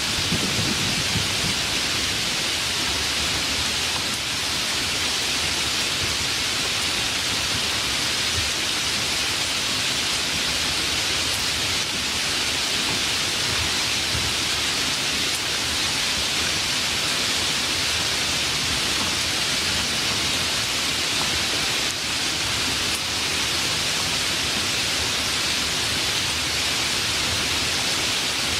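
Steady, even hiss of heavy rain. A low rumble fades out in the first second or so.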